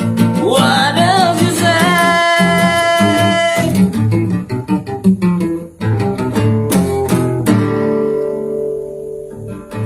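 Acoustic guitar picking and strumming. A voice sings a sliding melody over it in the first few seconds, ending on one long held note, then the guitar carries on alone and rings out on a held chord near the end.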